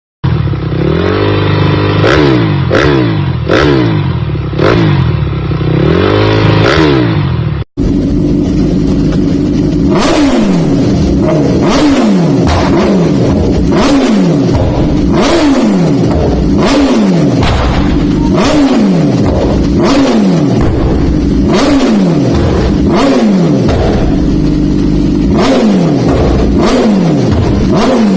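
Motorcycle engines revving in two clips joined by a sudden cut about eight seconds in. First a few rising and falling revs, then throttle blips repeated roughly once a second, each falling back in pitch, with sharp cracks.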